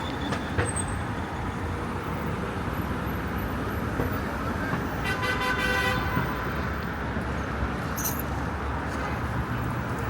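Steady city street traffic noise with passing vehicles, and a vehicle horn sounding once for about a second, about five seconds in.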